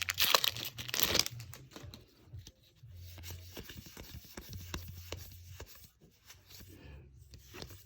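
A plastic booster-pack wrapper crinkling and tearing open for about the first second, then quieter rustles and small clicks of trading cards being handled and flipped.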